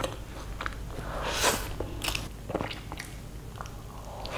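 Close-miked eating sounds: a person biting and chewing mouthfuls of chicken biryani and other food eaten by hand, with wet mouth clicks and smacks and one louder burst about a second and a half in.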